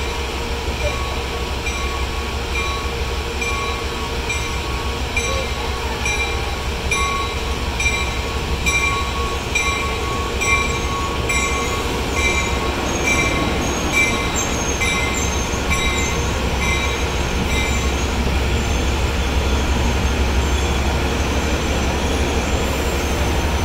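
Trinity Railway Express commuter train's bilevel coaches rolling slowly past on the station track, with a steady low rumble and wheel squeal. Over it the train's bell rings regularly, a little under twice a second, and stops about three-quarters of the way through.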